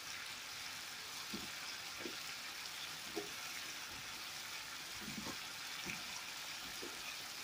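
Chicken pieces and diced potatoes frying in a pan with steady sizzling, broken by a few faint soft knocks as potato cubes are dropped in.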